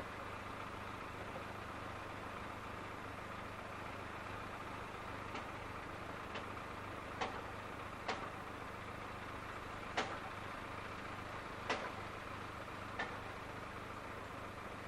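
Seaton Tramway electric tram running, with a steady hum and noise. About five seconds in, a series of seven sharp, irregularly spaced clicks begins.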